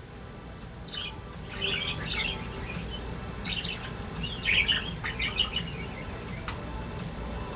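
Budgerigars chirping and warbling in short bursts, with the busiest run about four to five seconds in.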